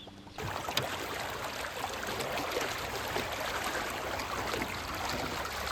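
Shallow river water running and burbling over rocks, a steady rushing that starts abruptly about half a second in.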